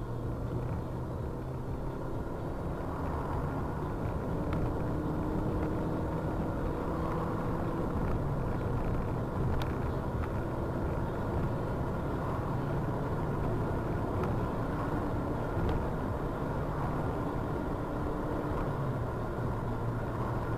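A car's engine running with steady road noise as the car drives, the engine note shifting slightly up and down.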